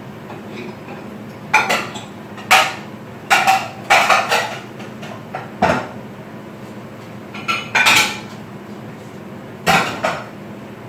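Dishes and cutlery being handled: about nine separate clinks and knocks of crockery and metal utensils, irregularly spaced, over a steady low hum.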